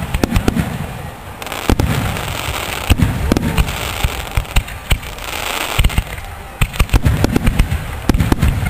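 Fireworks going off: many sharp bangs and crackles in quick succession over repeated low booms that fade away.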